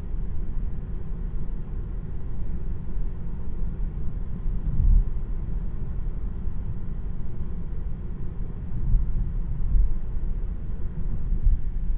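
Road and tyre noise heard inside the cabin of a 2026 Tesla Model 3, an electric car, while driving: a steady, deep hum that swells slightly now and then, with no engine note.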